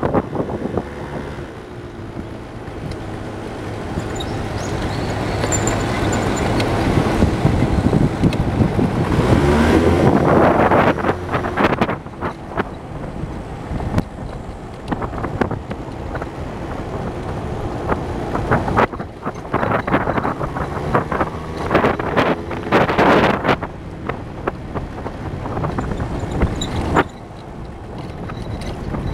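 Vehicle engine heard on board while driving, climbing in pitch as it accelerates for several seconds, then easing off, and later doing the same again. Wind buffets the microphone throughout.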